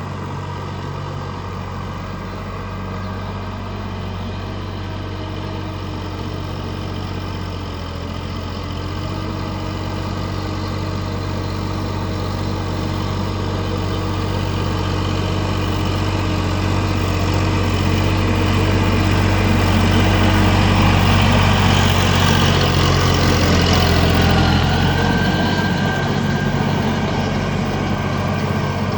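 Sonalika tractor's diesel engine running steadily. It grows gradually louder to a peak about three-quarters of the way through, then eases off a little.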